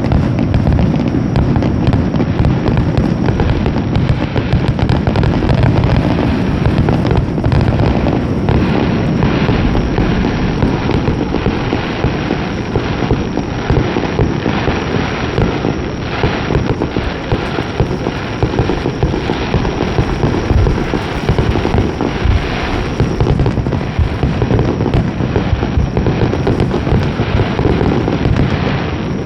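Aerial fireworks display: a dense, continuous barrage of overlapping shell bursts, deep booms mixed with crackling.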